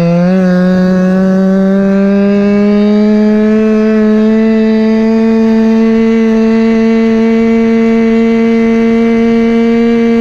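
Small single-cylinder two-stroke engine (Chongyang CY26RC, about 26 cc) on a Go-Ped stand-up scooter, running steadily at high revs while riding. Its pitch steps up about a quarter second in, then climbs slowly as the scooter gathers speed.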